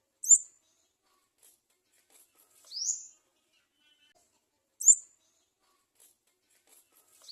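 Garden sunbird nestling begging for food with high-pitched calls: a sharp, short chirp, then about two and a half seconds later a thin call rising in pitch. The pair repeats, with a second rising call starting near the end.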